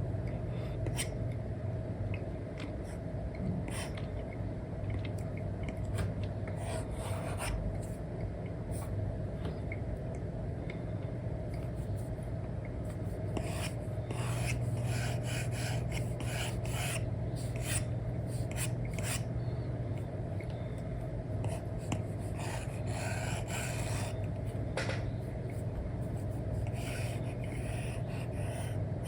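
Apple Pencil nib scratching and sliding across a paper-like screen film on an iPad: many short, rasping drawing strokes, thickest around the middle and again a little later, over a steady low hum.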